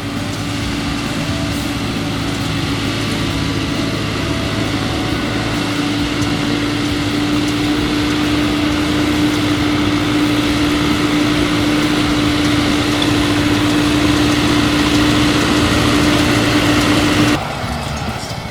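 Fendt Farmer 309 C tractor's diesel engine running steadily with a strong steady whine over it, growing slowly louder, then cut off abruptly near the end.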